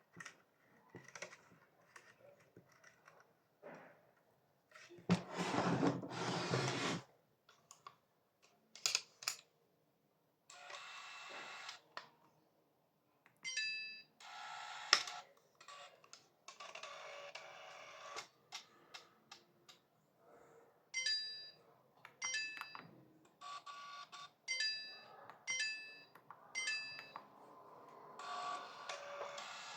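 Fibre optic fusion splicer being operated: short electronic beeps, several in quick runs in the second half, between stretches of motor whirring, with handling clicks and a loud rush of noise about five seconds in.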